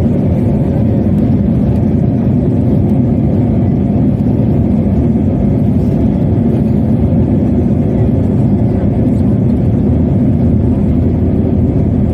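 Airbus A319's twin jet engines at takeoff power, a steady loud low engine noise heard from inside the passenger cabin.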